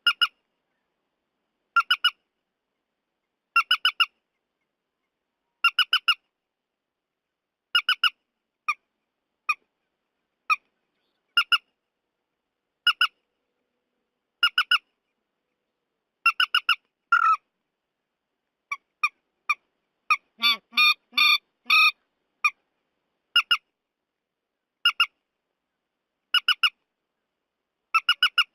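Trích ré bird calls from a lure recording: short bursts of two to four quick squawking notes, repeated about every one and a half to two seconds. About two-thirds of the way through, a faster chattering run breaks in.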